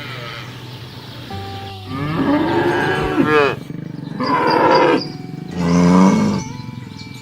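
Cows mooing: three loud moos in a row, the first starting about two seconds in and lasting the longest, the other two shorter.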